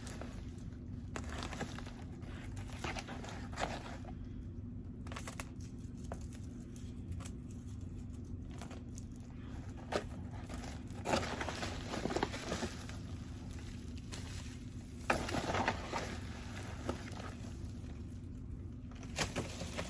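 Packaging being handled as a parcel is opened and unpacked: irregular crinkling and rustling of paper and plastic, with scattered short taps and handling clicks, over a faint steady low hum.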